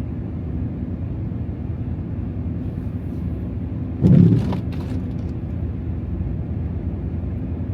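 Steady low rumble of a Ram TRX pickup, with its supercharged V8, driving through deep snow, heard from inside the cab. About four seconds in comes a brief, louder thump with a few sharp knocks.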